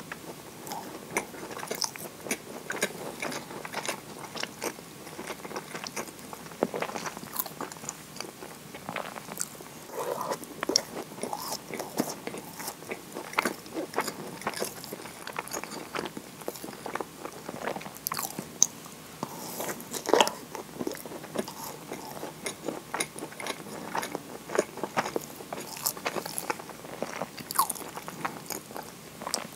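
Eating moist kinako scones dipped in maple syrup: bites and steady chewing, with many small wet mouth clicks.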